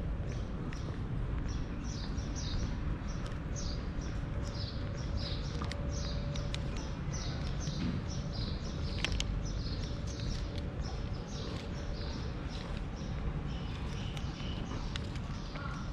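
Small birds chirping repeatedly, two to three short high notes a second, over a steady low rumble, with a few sharp ticks.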